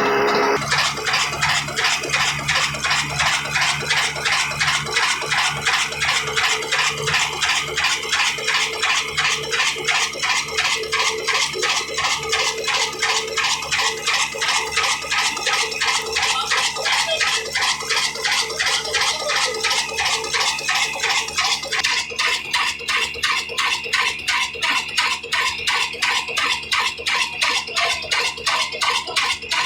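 Old black desi diesel engine running steadily, with a fast, even mechanical clatter from its beat.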